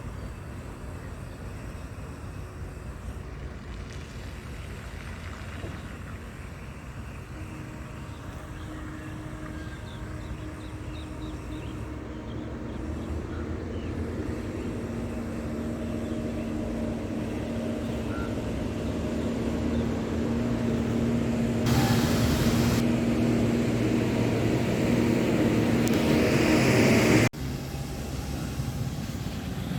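A heavy tipper truck's engine running and growing steadily louder as it draws near. Near the end the sound cuts off abruptly and a quieter steady engine rumble carries on.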